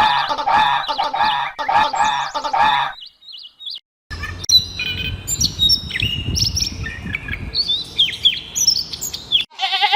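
Birds calling: a run of fast, repeated pitched calls for about three seconds, then a dense mix of short chirps and whistles over a low rumble, which cuts off near the end.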